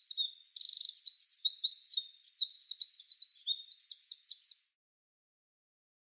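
A songbird singing a long, varied, high-pitched song of rapid chirps, sweeping notes and trills, which cuts off abruptly about three-quarters of the way through.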